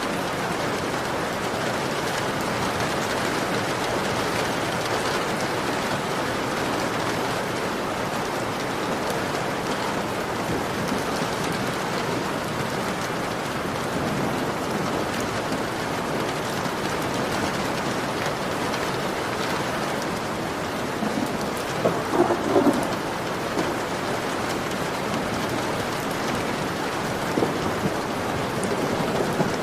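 Heavy rain falling steadily on a window, an even hiss throughout. A short cluster of louder, lower hits comes about two-thirds of the way through, and a couple more near the end.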